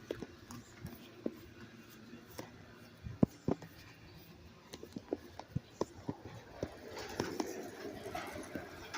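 Footsteps and small knocks while walking: a series of irregular sharp clicks, two louder ones about three and a half seconds in and a run of lighter ones a little later, with a faint voice near the end.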